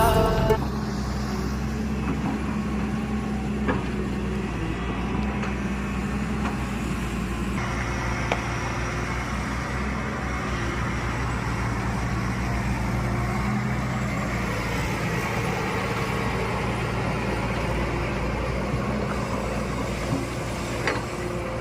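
JCB digger's diesel engine running steadily under work, with a few faint knocks.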